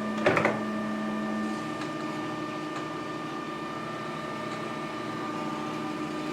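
Dumore tool post grinder and metal lathe running with a steady hum and whine, with a short clatter about a third of a second in as the machine is switched on.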